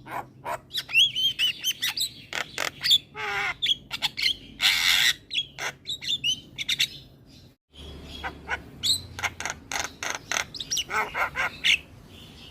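Javan myna (jalak kebo) singing non-stop: a fast, varied run of clicks, chirps and whistled glides mixed with harsh raspy squawks, breaking off for an instant about two-thirds through.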